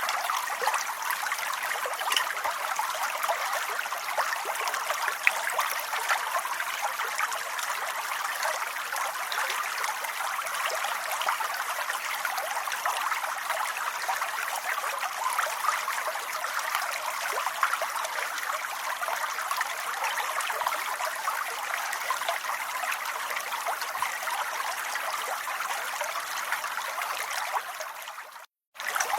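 Steady rain, an even hiss with no single drops standing out. It cuts out completely for about half a second near the end, then resumes.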